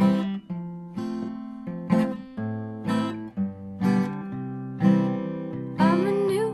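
Background music: an acoustic guitar strumming chords about once a second, the intro to a song, with a sung or played melody line entering near the end.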